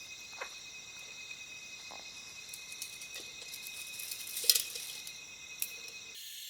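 Night insects, crickets among them, trilling steadily in several high tones at once, with a few soft clicks and knocks, the sharpest about four and a half seconds in.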